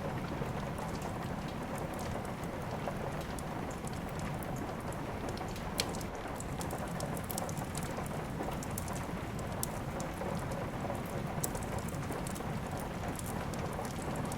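Steady rain with many short sharp crackles and pops from a wood fire over it, one louder pop about six seconds in.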